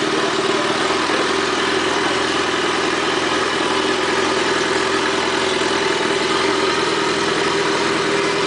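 Vehicle engine idling steadily through an aftermarket exhaust, with an even, unchanging note.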